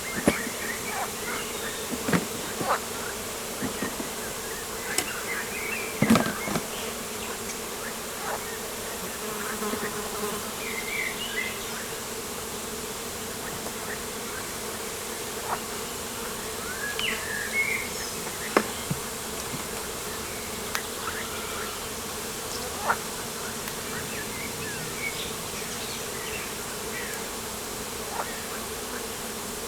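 Steady buzzing hum of flying insects, with short bird chirps here and there and occasional sharp clicks, the loudest of them about six seconds in and near the middle.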